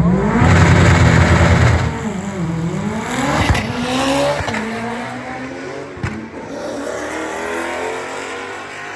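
Car engine revving hard, its pitch dipping and then climbing again, before settling into a steadier, quieter run that fades toward the end.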